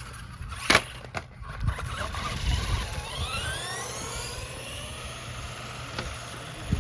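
Radio-controlled car driving on concrete: a sharp knock about a second in and a smaller one just after, then the electric motor whining up and down in pitch as it speeds up and slows, over the rumble of its wheels.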